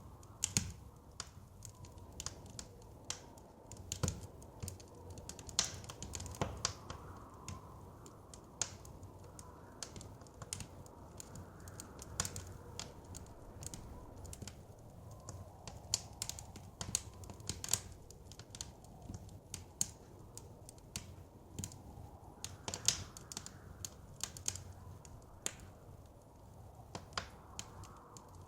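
Wood fire crackling, with irregular sharp pops and snaps, over a soft low rush of blizzard wind.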